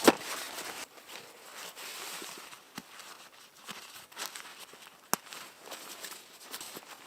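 Irregular rustling and crunching handling noises, with a sharp knock at the very start and a single sharp click about five seconds in.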